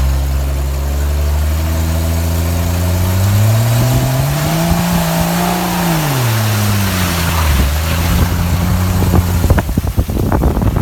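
A 4x4's engine revving as it pushes through a muddy puddle: the engine pitch climbs over a couple of seconds, holds, then drops back and settles, under a rising rush of tyre and mud noise. Sharp knocks come near the end.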